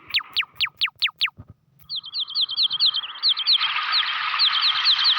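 Bird calls played back from an octapad intro patch: a run of quick falling chirps, about six a second, that stops about a second and a half in. After a short gap a fast trill of repeated chirps starts, and a steady hiss joins it about three and a half seconds in.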